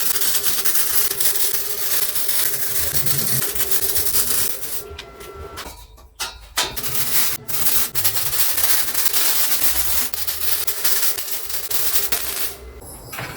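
A handheld power tool running steadily against material, with a short stop about six seconds in before it carries on.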